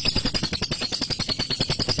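Male lovebird singing its ngekek: a long, unbroken rapid chatter of short notes, about ten a second.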